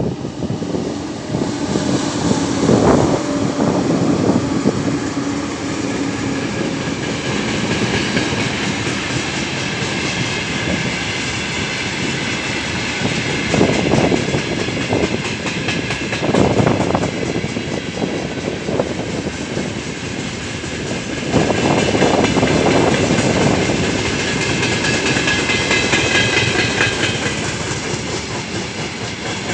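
Mixed freight train behind a 3ES5K 'Ermak' electric locomotive rolling past, its wagon wheels clacking over the rail joints under a continuous rolling noise. A steady hum runs through the first few seconds.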